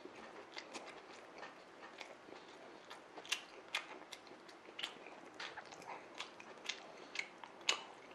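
A person chewing a mouthful of sub sandwich with mouth closed: faint, sparse wet clicks and smacks, with a few sharper ones around three to five seconds in and again near the end.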